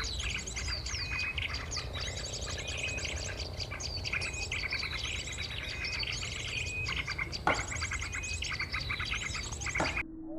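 Recorded songbird calls of rapid high chirps, trills and short descending whistles, repeated without pause, of the kind played from an MP3 player to lure small birds. A steady low rumble runs under the calls, and a single knock comes about seven and a half seconds in.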